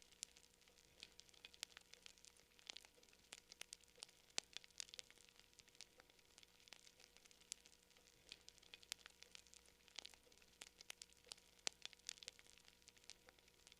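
Campfire crackling: faint, irregular quick pops and snaps, several a second, over a low hiss.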